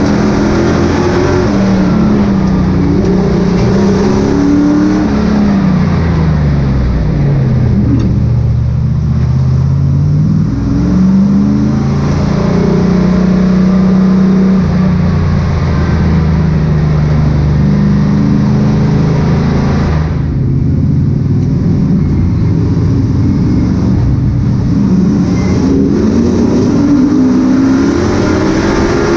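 Several Super Pro Truck race engines running hard together, their pitches rising and falling as they accelerate and lift off around the track.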